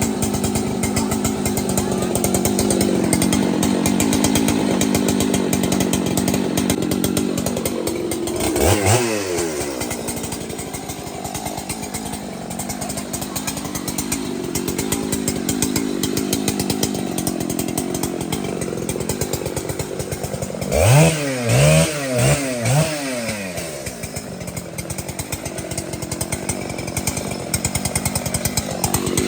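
Large two-stroke chainsaw running steadily as it cuts through timber. About nine seconds in the engine pitch drops and picks up again, and around twenty-one seconds it is revved up and down several times in quick succession.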